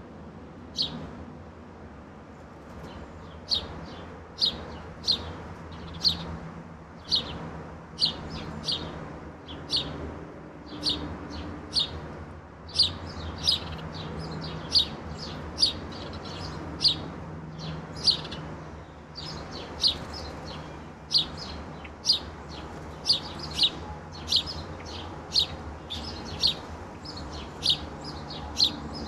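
Songbirds giving short, sharp chip calls, one or two a second and sometimes overlapping, over a faint steady low rumble.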